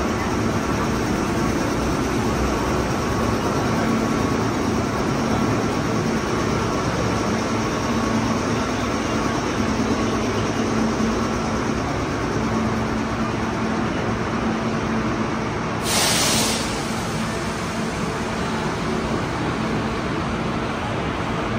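Electric train's steady running hum, with a few constant tones from its onboard equipment. About three-quarters of the way through comes a short burst of hissing air.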